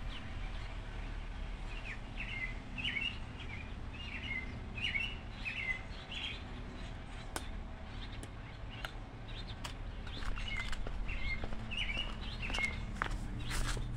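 A small bird chirping in two series of short, quick calls over a steady low outdoor hum, with a few sharp light clicks in the second half.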